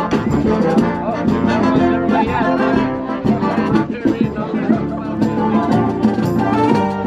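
Live marching brass band playing a tune, with brass leading over drums.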